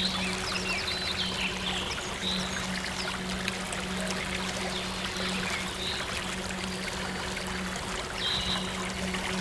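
Steady rush of flowing stream water, with short chirping calls coming and going over it and a low, steady synth drone underneath.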